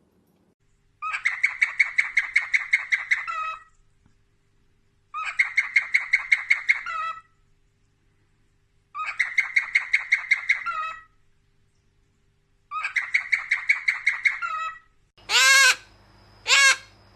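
A bird calling in four bouts of rapid repeated notes, about five a second, each bout lasting about two seconds with a pause of a second or two between them. Near the end, two louder calls of a different kind.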